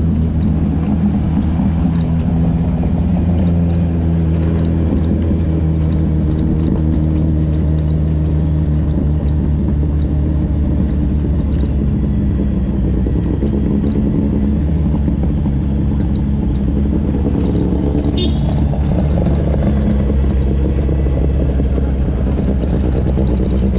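Motorcycle engine running steadily at an even pace, with small shifts in pitch. A brief sharp high sound comes about three-quarters of the way through.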